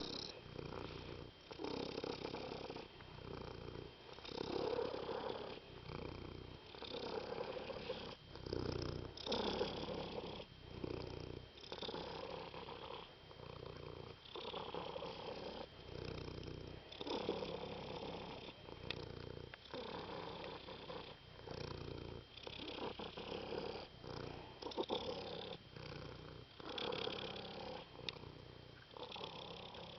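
Domestic cat purring close up, swelling and fading with each breath in and out, about one cycle every second or so.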